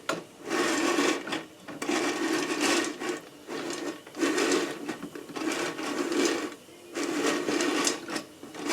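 Whirley Pop stovetop popcorn popper being hand-cranked, its stirring arm sweeping unpopped kernels across the bottom of the aluminium pan in rhythmic rasping swishes about once a second. No kernels have popped yet: the pan is still heating.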